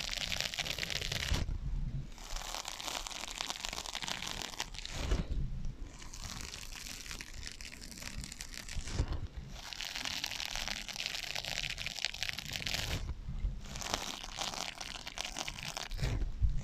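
Scratching on sponges, a dense crackly rasp with an echo effect added, in about four long passes of roughly four seconds each with short pauses between them.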